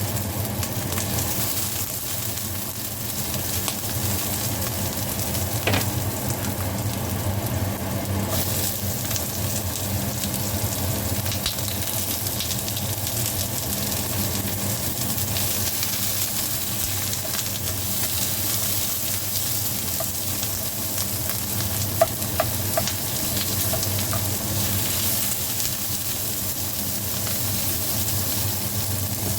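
Food sizzling steadily in a hot frying pan, with a few light clicks about three-quarters of the way through.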